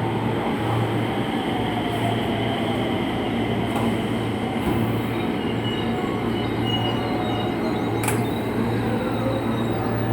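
JR West 207 series electric train's motor car pulling away, its VVVF inverter giving a whine with high steady tones and a slowly rising tone over the motor and running noise. The inverter has a long-standing abnormal noise. A sharp click comes about eight seconds in.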